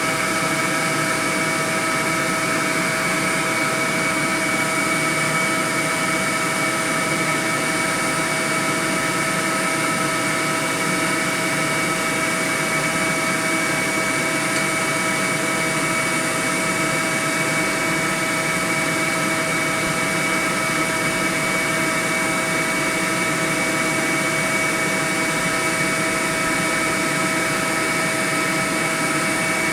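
A honey bee swarm buzzing: a loud, steady, unbroken drone of many bees' wings.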